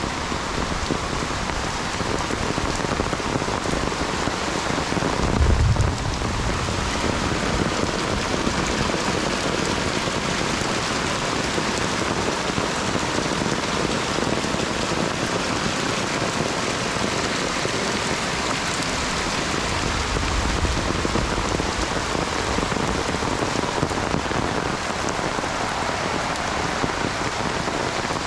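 Heavy rain pouring steadily. About five seconds in there is a short low rumble, the loudest moment, and a fainter one about twenty seconds in.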